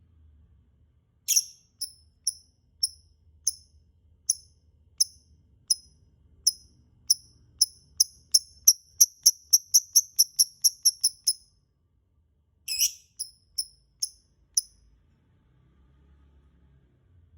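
Lovebird calling: a harsh shriek, then a string of short, high chirps that speed up to about four a second before stopping. A second shriek follows with a few more chirps, then it falls quiet.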